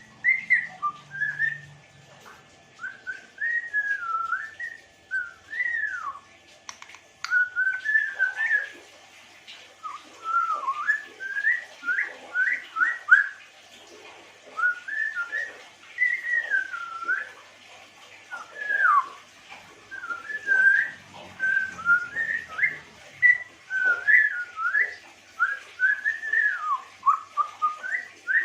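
African grey parrot whistling: many short sliding whistled notes, rising and falling, strung into phrases with brief pauses between them.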